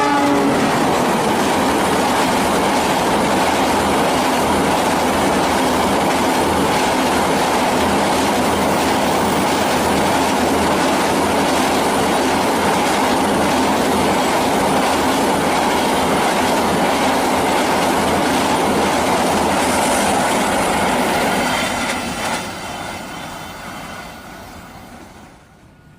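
Train rolling past at close range: steady wheel-on-rail rumble with clickety-clack and a held ringing tone, which fades away over the last four seconds.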